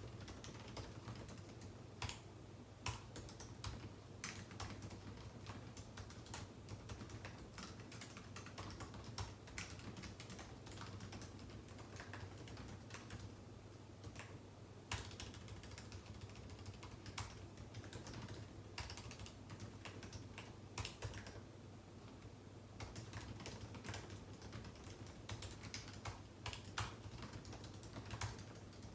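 Typing on a computer keyboard: a steady, irregular run of key clicks with short pauses, over a faint low hum.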